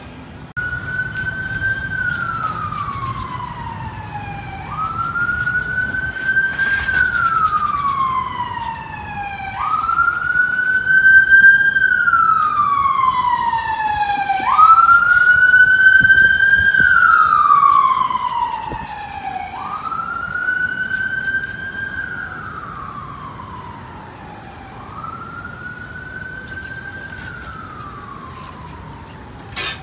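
Emergency vehicle wail siren. It makes six slow cycles, each a quick rise in pitch followed by a long falling glide, about five seconds apart. It grows louder toward the middle, then fades.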